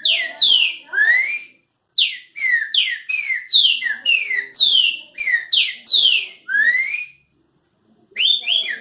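A man whistling an imitation of the pixarro (green-winged saltator) song: phrases of clear notes, each sliding quickly downward, with a rising slurred note closing the phrase. There is a short pause about a second and a half in, and another near the end before a new phrase starts.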